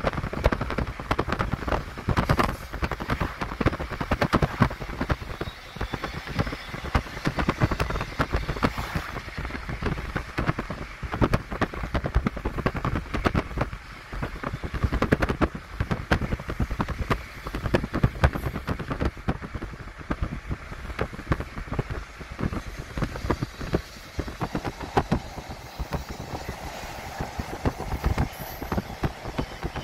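Norfolk Southern intermodal freight train's container cars rolling past: a steady low rumble of wheels on rail with a dense, continuous run of clanks and rattles.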